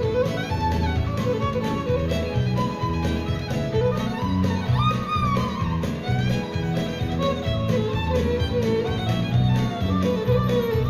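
Instrumental break of a country song: a fiddle plays the melody over a steady bass and guitar rhythm.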